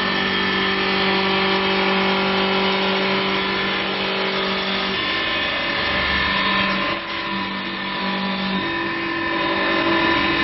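CNC wood-turning lathe with a rotary carving spindle running: a steady motor hum and whine over a rushing noise. The pitch steps to a new note about halfway through and again near the end, as the motor speed changes.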